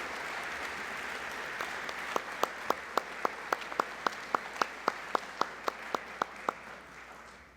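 Audience applauding in a gymnasium. Through the middle, a run of sharp, even claps about four a second stands out above the rest. The applause dies away near the end.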